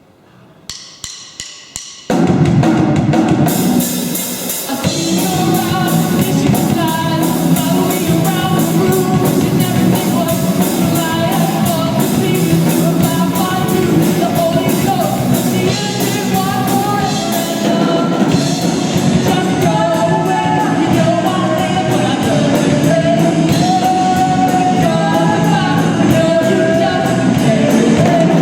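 Live rock band with drum kit and a lead singer. A few sharp clicks come first, then about two seconds in the full band comes in together and plays on steadily, with the vocal line running over the top.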